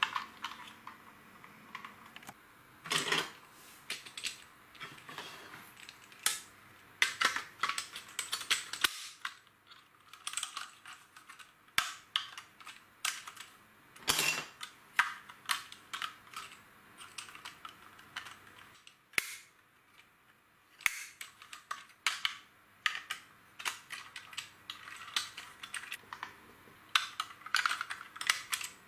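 Plastic LEGO pieces clicking and clattering: irregular sharp clicks and light rattles as bricks are handled and snapped together, in quick clusters with short pauses between.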